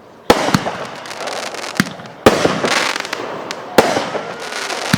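Consumer fireworks going off: about six sharp, loud bangs at irregular intervals, with crackling and hissing between them.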